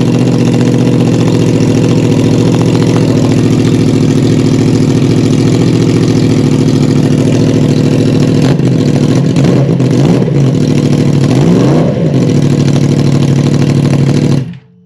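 2021 Yamaha R1's crossplane inline-four engine idling loudly, with a few short throttle blips late on. The sound cuts off suddenly near the end.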